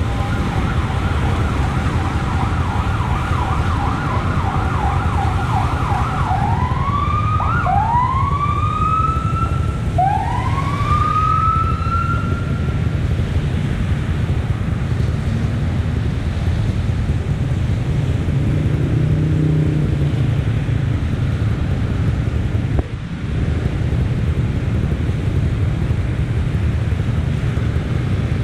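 Emergency vehicle siren: a fast warbling yelp for the first several seconds, then three rising whoops of about two seconds each, gone about halfway through. A steady low rumble of traffic runs underneath.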